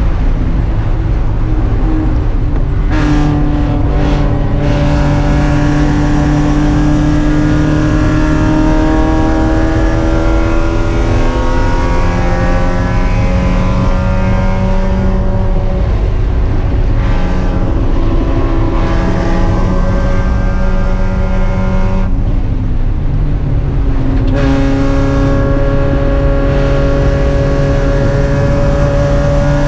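Spec Miata's four-cylinder engine running hard under racing load. Its pitch climbs slowly through long stretches, with brief lifts off the throttle and a longer drop a little past two-thirds of the way in before it pulls again.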